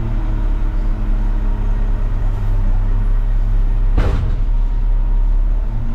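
Front loader garbage truck's engine running steadily, with one sharp knock about four seconds in.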